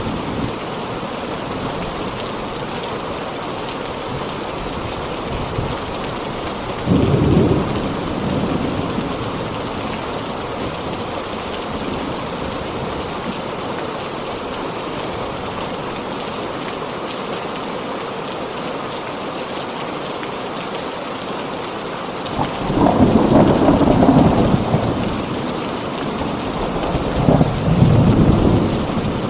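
Heavy rain falling steadily, with thunder rumbling. There is a short roll about seven seconds in, then a longer rumble near the end, followed closely by another.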